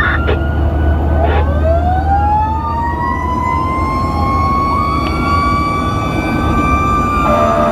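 Fire engine sirens wailing while the truck drives on a call, their tones rising and falling and crossing one another over the steady low drone of the engine. Near the end a steady horn-like tone cuts in.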